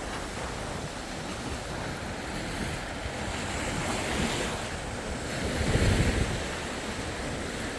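Sea waves washing up on a beach, with wind buffeting the microphone; the surf swells twice, about four seconds in and again about six seconds in.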